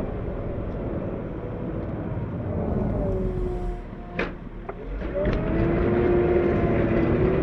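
Cat 908 compact wheel loader's diesel engine running, easing off about four seconds in, where there is a single sharp knock, then revving up and running louder.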